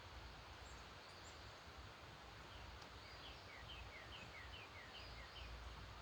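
Faint distant birdsong at dawn: from about halfway in, one bird sings a quick run of about a dozen short falling notes, alternating high and low, roughly four a second, while other birds give a few thin high chirps. A steady low rumble and hiss sits under it all.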